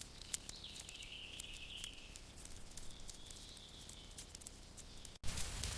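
Nature ambience: a faint, high, wavering insect-like hum with scattered small clicks and crackles. About five seconds in it cuts off suddenly and gives way to a louder crackling hiss.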